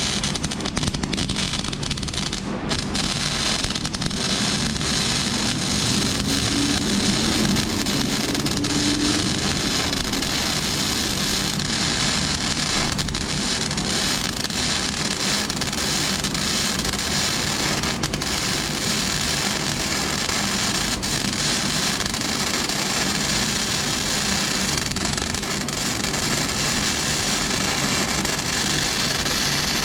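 Flux-core wire-feed arc welding on steel with a Lincoln Weld-Pak 90: a continuous, even crackle and sizzle of the arc as the wire feeds.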